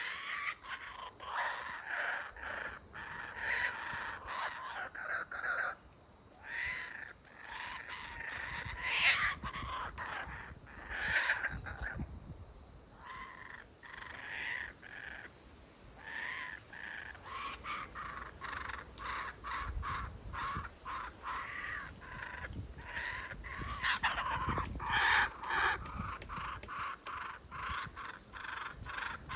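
Kookaburras calling: runs of quick, harsh repeated notes that stop and start several times, with a few low thumps underneath.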